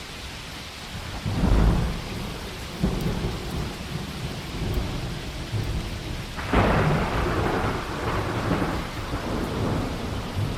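Heavy rain falling steadily in a thunderstorm, with thunder rumbling. It swells loudest twice: briefly about a second and a half in, then longer from about six and a half seconds.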